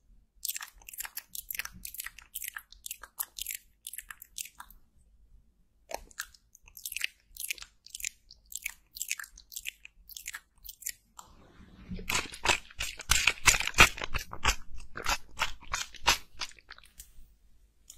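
Close-miked crisp crackling and crunching ticks in quick irregular runs, growing denser and louder for several seconds past the middle.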